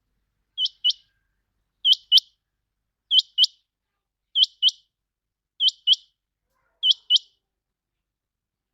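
Common quail calling: six evenly spaced calls, each a quick pair of high notes, repeating about every second and a quarter.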